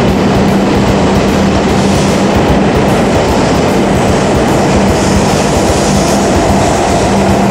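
E5 series Shinkansen train pulling out past a station platform: a loud, steady running noise of the train gathering speed alongside the platform.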